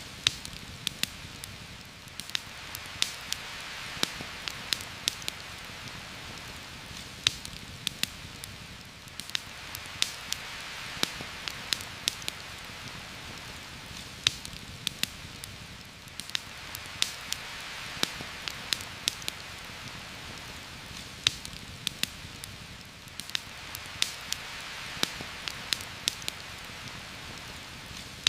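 Steady heavy rain hiss that swells and eases about every seven seconds, with frequent sharp clicks and pops scattered through it.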